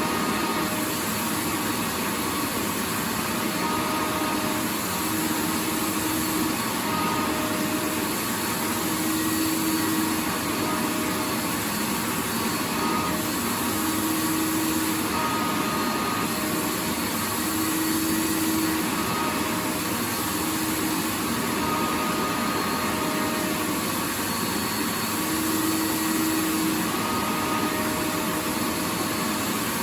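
Vacuum cleaner running steadily, an even rushing noise with a faint motor hum that fades in and out every second or two.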